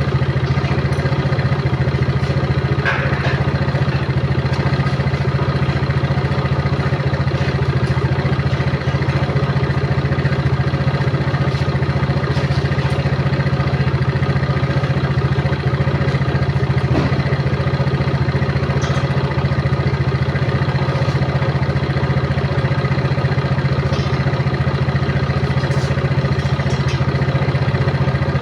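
A steady, unchanging mechanical drone with a strong low hum, like a small engine or motor running at constant speed, with a few faint ticks.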